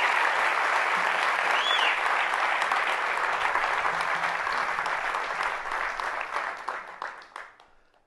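Theatre audience applauding, steady at first and then thinning into scattered claps before fading out near the end, with one short whistle about two seconds in.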